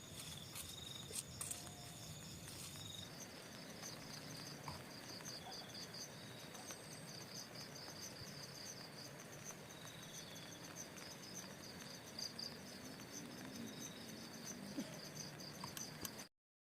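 Faint chorus of insects chirping in fast, even pulses, over a low background hiss, with a few small clicks in the first couple of seconds. The sound cuts off suddenly near the end.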